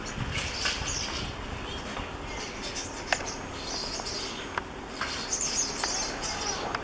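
A flock of thrushes, which the uploader takes for fieldfares, chattering with repeated short, scratchy calls, mixed with a few sharp clicks.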